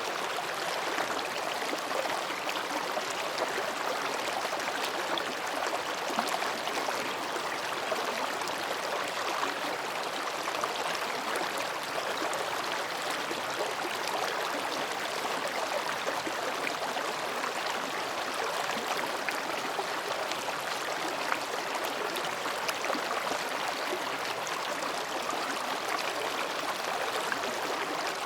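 Mountain stream babbling steadily as it flows between rocks, with small splashes scattered through it.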